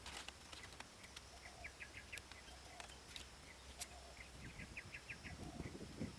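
Outdoor ambience with a bird calling in two quick runs of five or six short chirps, over a faint steady high insect drone and a few soft clicks.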